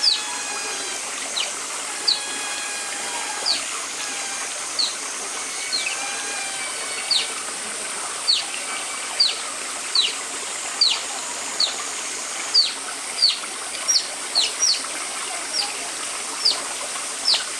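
Oriental small-clawed otters chirping: short, high-pitched calls that each drop sharply in pitch, repeated about once a second, over a steady running-water background.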